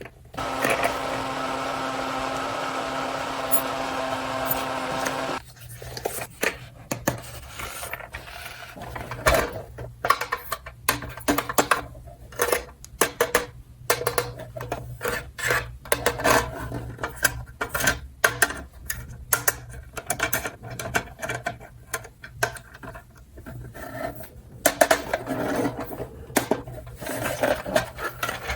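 A steady pitched tone for about five seconds, then small plastic toy pieces being handled, clicking and knocking irregularly.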